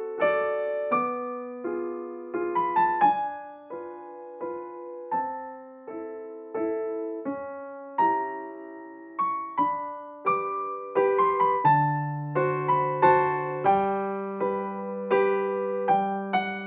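Background music: a gentle electric piano melody with chords, a bass line coming in about two-thirds of the way through.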